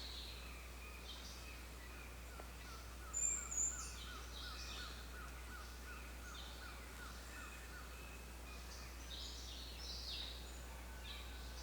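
Several wild birds calling and singing together. One bird repeats a short note about three times a second for several seconds, with scattered higher chirps over it; the loudest sounds are two sharp high calls about three seconds in. A low steady hum runs underneath.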